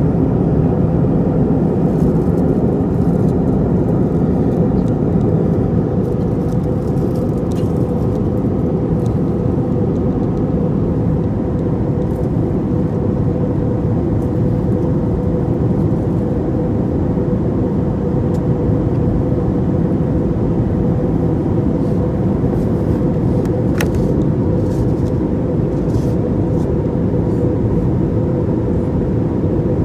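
Steady cabin noise of an airliner in flight: the even rush of engines and airflow, with a steady hum running through it and a faint click about three-quarters of the way in.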